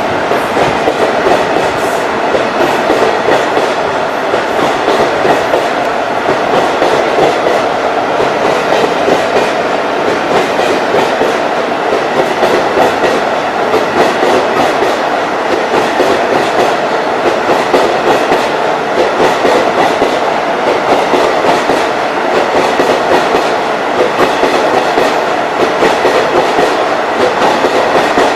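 Express passenger train's coaches rolling past at speed, wheels clattering steadily over the rail joints without let-up.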